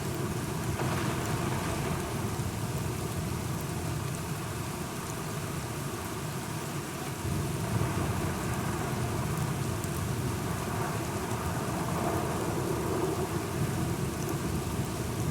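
Steady rain falling, with a low, continuous rumble of thunder underneath.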